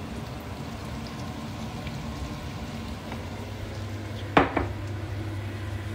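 Chili sambal, nearly dry, sizzling steadily as it fries in a pan. About four and a half seconds in, two sharp knocks as a glass jar is set down on a hard countertop.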